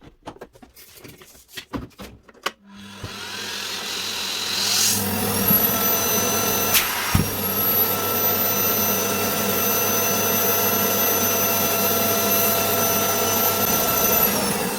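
Miele S711 vacuum cleaner being handled with a few clicks, then switched on about three seconds in: its motor runs up to speed with a rising whine over about two seconds and then runs steadily with a high whine, on a test run after cleaning and reassembly. A sharp click about seven seconds in.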